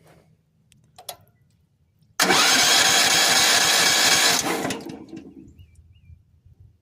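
Sawmill's gas engine cranked on its electric starter with the choke on. It comes in suddenly and loud about two seconds in, holds for about two seconds, then dies away without the engine running on.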